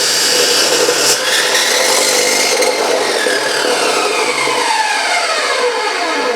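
Chop saw running, its abrasive cutting noise steady at first, then the motor winding down with a falling whine over the last few seconds as the blade coasts to a stop.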